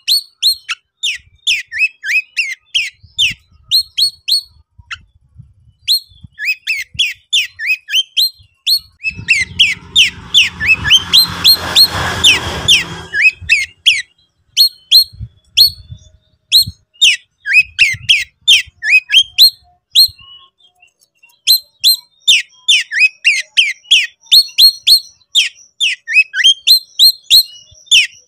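Oriental magpie-robin (kacer konslet) singing: rapid runs of short, sharp, downward-sliding whistled notes in phrases separated by brief pauses. Partway through, a burst of rustling noise sounds under the song for a few seconds.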